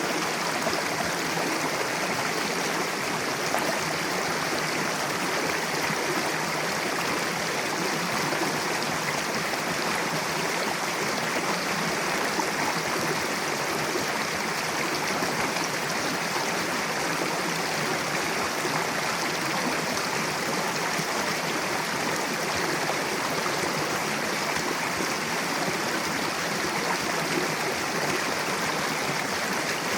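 Mountain river rushing steadily over rocks, a constant even flow of water.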